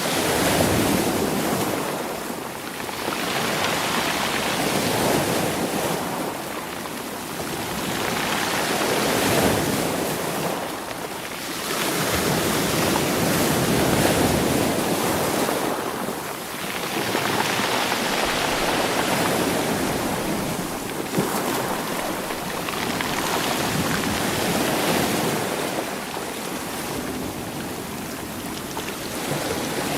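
Sea waves washing up over a beach of rounded stones and drawing back, the rocks rolling and rattling in the surf. The surf swells and eases in slow surges about every four to five seconds.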